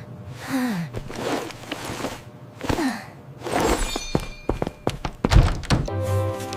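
A run of sharp knocks and thuds, the loudest a heavy low thump about five seconds in, after a few short falling cries.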